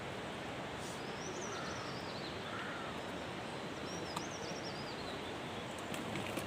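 A steady rush of mountain water, with a small songbird singing two quick warbling phrases over it, about a second in and again past the middle.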